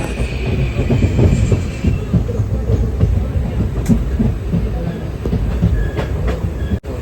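Passenger express train running on the rails: a heavy, steady low rumble with irregular knocks of the wheels over the track, and a faint high wheel squeal in the first two seconds. The sound drops out for an instant near the end.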